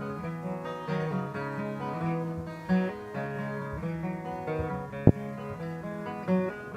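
Acoustic guitar picked in a live song's instrumental break between sung verses, with a single sharp click about five seconds in.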